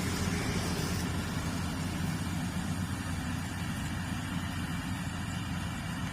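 Yanmar YH850 combine harvester's diesel engine running steadily with a low, even hum; a high hiss heard with it fades out about a second in.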